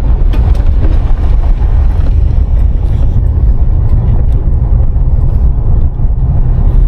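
Car driving: a loud, steady low rumble of road and wind noise.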